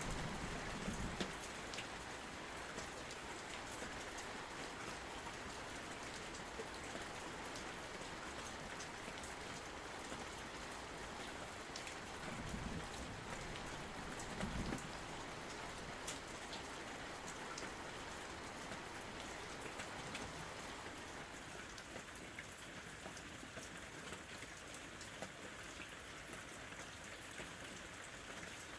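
Steady rain, an even hiss of falling drops. A low thunder rumble dies away in the first second, and faint low rumbles swell briefly twice around the middle.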